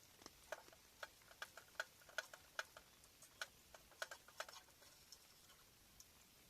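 Faint, light clicks and ticks in an irregular run, about twenty in four seconds, that stop well before the end.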